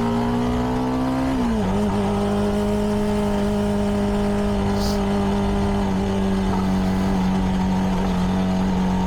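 CFMoto 300NK's single-cylinder engine through its stock exhaust, running steadily under way; its pitch drops about a second and a half in, then holds.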